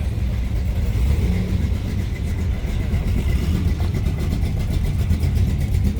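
Car engine running with a steady low rumble and a fine, regular pulse.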